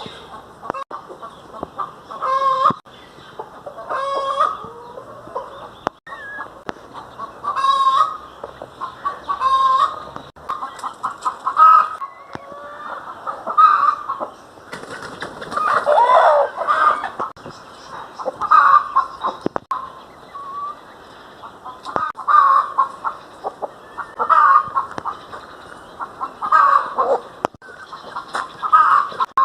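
Domestic hens clucking, short calls coming every second or two, with a louder, noisier outburst about halfway through.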